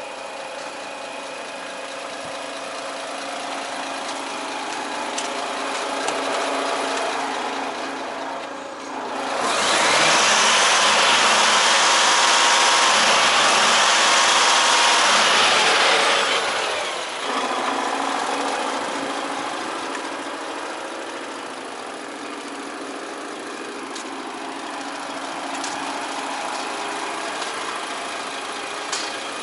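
DAF XF 460 truck's six-cylinder diesel engine idling steadily. For about seven seconds in the middle, a loud even rushing hiss rises over it and then drops away.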